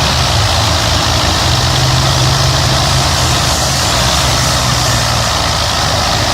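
Belarus 520 tractor's diesel engine running steadily and loud, its note growing stronger for a couple of seconds about a second and a half in.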